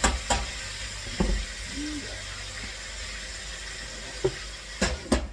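Food sizzling in hot oil in a pan, a steady hiss, with a few sharp knocks of a utensil against the pan, several of them near the end.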